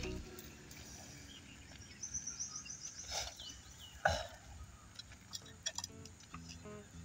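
Quiet outdoor ambience with birds chirping: a quick run of high chirps a little after two seconds in, then a few falling notes. A single dull thump about four seconds in.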